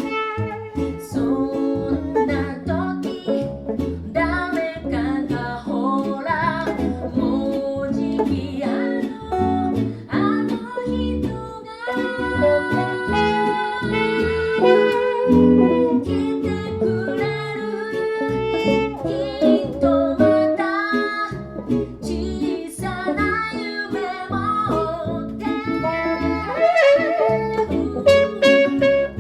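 Live band playing a reggae arrangement, with a singer over guitar and horns.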